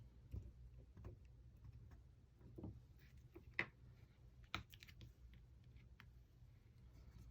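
Near silence with a few faint, scattered taps and clicks of small craft items and cardstock being handled on a work table, the loudest about three and a half seconds in.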